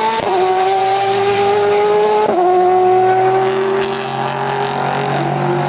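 Car engine at high revs pulling through the gears, its pitch dropping sharply twice, about a quarter of a second and just over two seconds in, as it shifts up.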